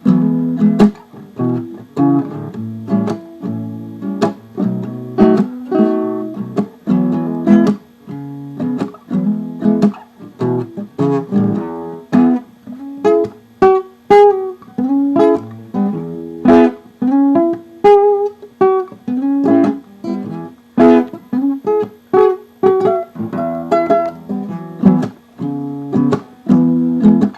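Acoustic guitar strumming chords in a blues rhythm, an instrumental break with no singing.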